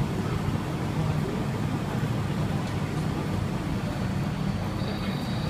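Steady low hum inside a Changi Airport Skytrain people-mover car. A faint, thin high tone joins it near the end.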